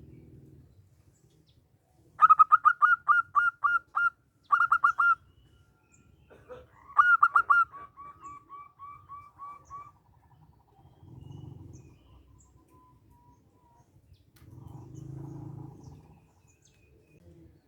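Zebra dove (perkutut) singing: quick runs of short, evenly spaced cooing notes, about three to four a second, starting about two seconds in and again around five and seven seconds, then trailing into a fainter run of notes. Low background rumble comes and goes later on.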